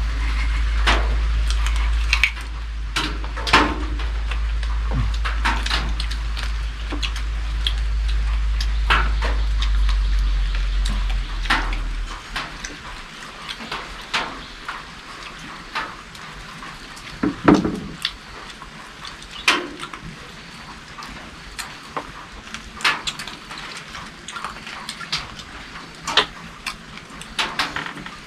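Scattered clinks and knocks of plates and utensils during a meal, irregular and spread throughout. A low rumble runs under the first twelve seconds and stops abruptly.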